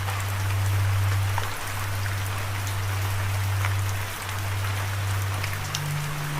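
Steady rain falling, an even hiss with scattered individual drop ticks. Under it runs a deep sustained drone that steps up in pitch near the end.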